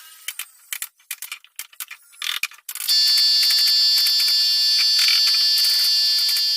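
A few light clicks and knocks, then, about three seconds in, a power tool motor starts with a loud, steady, high-pitched whine.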